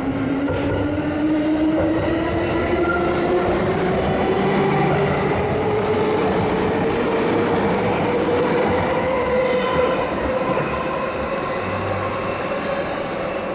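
Electric commuter train accelerating, its traction motors whining in a tone that rises steadily in pitch over a running rumble.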